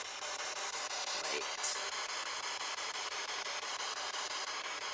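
SB11 spirit box sweeping through radio frequencies: a steady hiss of choppy static with faint tones, picking up no clear voices.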